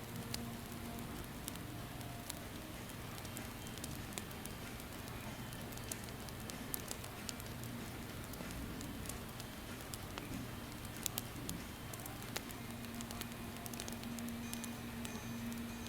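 Campfire burning, a steady hiss of flames broken by scattered sharp crackles and pops at uneven intervals, with a faint low hum underneath.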